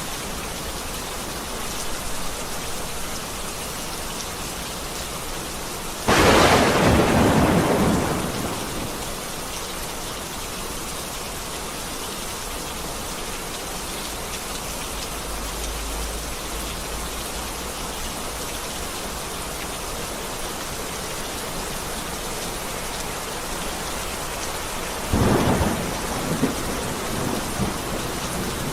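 Heavy rain falling steadily, with a sudden loud thunderclap about six seconds in that rumbles away over a couple of seconds, and a second, quieter crack of thunder near the end.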